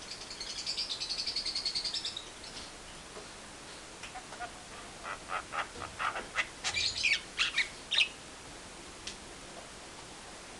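Bird calls: a fast rattling trill that grows louder over the first two seconds, then a run of harsh chattering notes from about five to eight seconds in.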